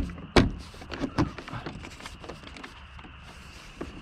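Two sharp knocks close together, then a few lighter clicks and taps: hand tools and car door or interior parts being handled.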